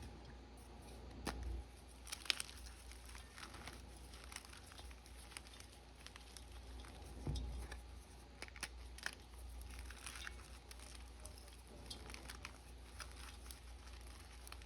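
A reformed bar of blue gym chalk being crushed and crumbled: irregular crunches and crackles, with a few sharper snaps.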